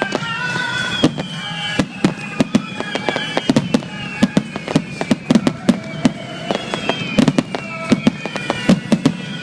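Fireworks going off in rapid, irregular succession: many sharp bangs and crackles. High tones slide slowly down in pitch over them.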